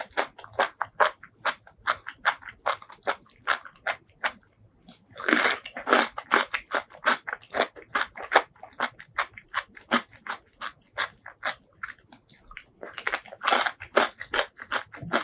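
Close-miked eating sounds: chewing, a steady run of sharp, wet clicks about four a second. Two longer, louder bursts of biting come about five seconds in and again near the end.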